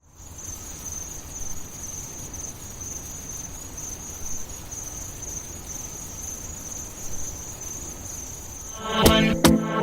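Steady high-pitched insect chirring, with a soft low rumble beneath. About nine seconds in, a song's beat and music come in loudly over it.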